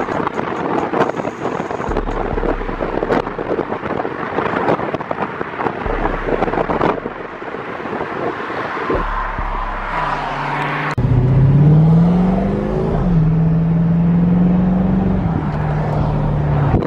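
Car on the move with heavy wind and road noise. About eleven seconds in, the engine note comes through clearly, rises in pitch as it accelerates, then holds steady.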